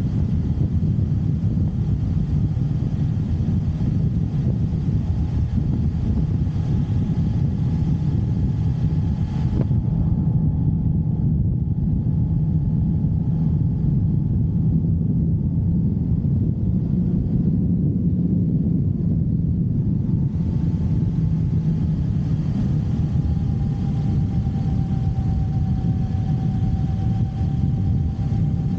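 Motorcycle running on the road, a steady low engine drone under road and wind noise; the hiss thins for about ten seconds in the middle.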